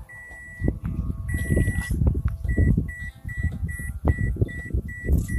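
Electronic warning chime beeping at one steady high pitch, typical of a car's chime: two long beeps, then quicker short beeps about two and a half a second from about halfway in, over low rumbling and handling noise.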